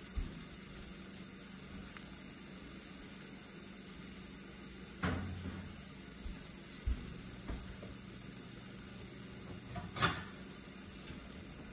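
Green onion pancakes frying in oil in a nonstick pan: a steady soft sizzle, with a couple of sharp pops about five and ten seconds in.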